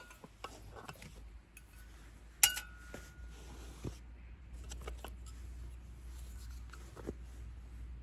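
Hard objects being handled, clicking and knocking lightly, with one sharp metallic clink about two and a half seconds in that rings briefly, over a low steady rumble.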